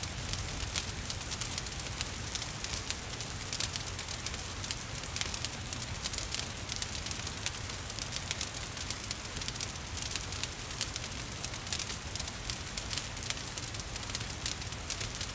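Wood fire crackling, with frequent irregular pops and snaps over a steady hiss of rain and a low rumble.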